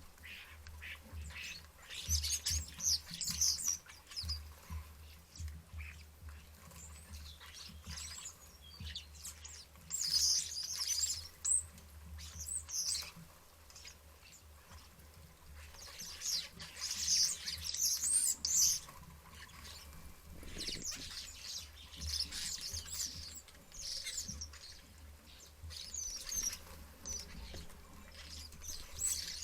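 Common starlings chattering and squabbling, harsh high calls coming in bursts every few seconds with quieter gaps between.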